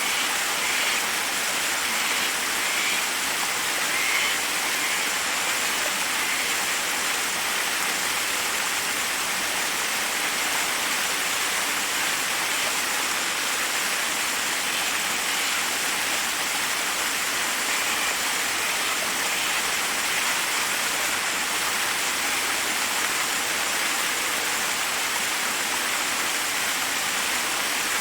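Forest waterfall: a steady, even rush of water cascading over rocks.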